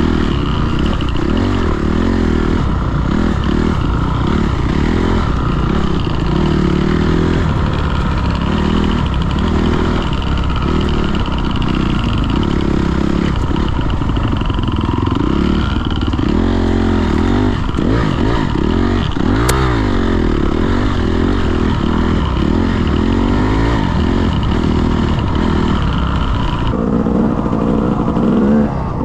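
Dirt bike engine revving up and down over and over, its pitch rising and falling every second or two, with a single sharp click about two-thirds of the way through.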